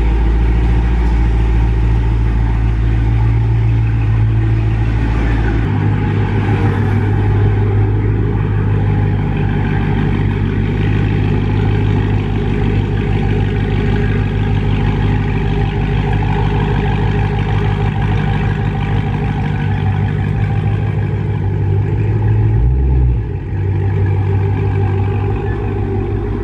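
Dodge Charger's 392 Hemi (6.4-litre V8) idling steadily through its exhaust just after being started, its low rumble shifting about six seconds in.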